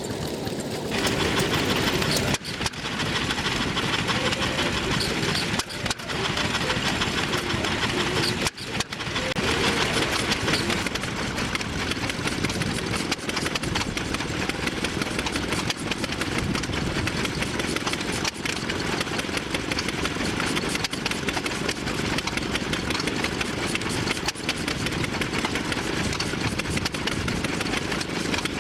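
Vintage stationary engines running steadily, with a few sudden short breaks in the sound.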